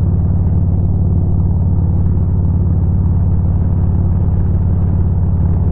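Harley-Davidson Road King's V-twin engine running steadily at road speed, mixed with wind rush on the microphone.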